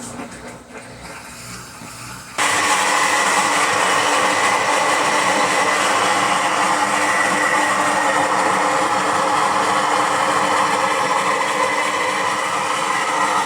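Electrolux LT15F washing machine spinning noisily, a loud steady motor whine with a constant high tone that starts abruptly a couple of seconds in. This noise during the spin cycle is the fault being shown.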